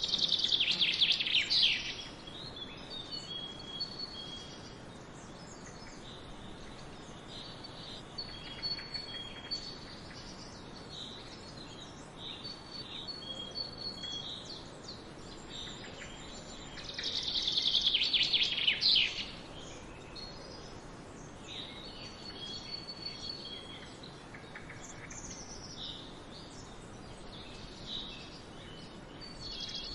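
Songbirds singing and chirping: a loud, fast, falling song phrase near the start and another about two-thirds of the way through, with short high chirps repeating in between over a faint outdoor hiss.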